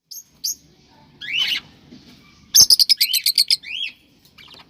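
Cockatiels chirping and whistling: two short chirps, a rising whistled call, then a fast run of about ten sharp notes in a second and another rising whistle.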